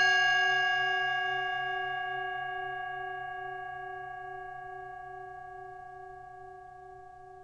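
A struck bell or bowl, struck once, ringing out and slowly fading, its lower tone wavering slightly.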